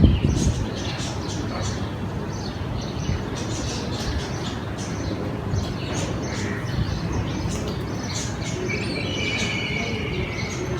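Birds chirping: many short, high chirps, with a quick trill of repeated notes near the end, over a steady low background rumble.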